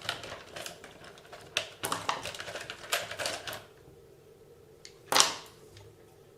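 Small clicks and knocks of hands and tools handling a plastic RC car gearbox on a workbench, a busy run of them over the first few seconds and one louder knock about five seconds in.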